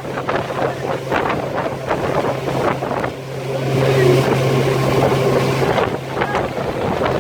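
Sea-Doo GTX 300 personal watercraft's engine running steadily, its pitch rising about halfway through and holding, with water splashing at the hull and wind buffeting the microphone.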